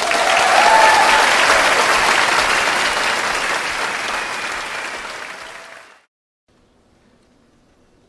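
Audience applauding at the end of a piece, loud at first and fading over about six seconds, then cutting off suddenly to near silence.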